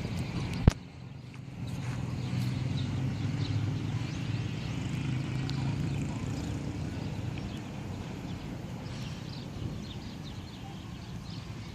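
Hailstorm: a steady clatter of hailstones pelting down, with a low rumble that swells about a second and a half in and fades after the middle. A single sharp knock comes just under a second in.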